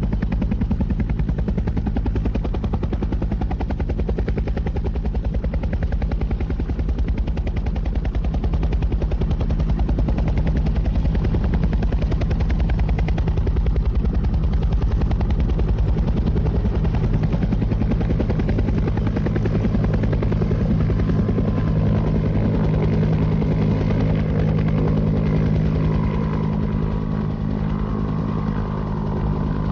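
Helicopter running, its rotor blades chopping in a rapid, steady beat over a low engine drone; a higher whine comes in about two-thirds of the way through.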